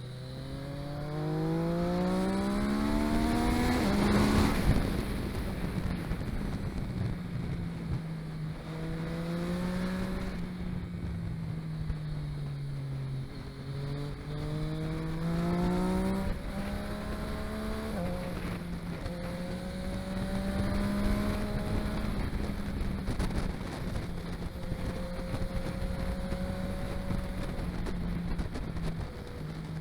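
Vehicle engine pulling hard through the gears. Its note climbs steeply over the first four seconds and drops at a gear change. It then rises and falls with the throttle, with further sudden drops at shifts around the middle.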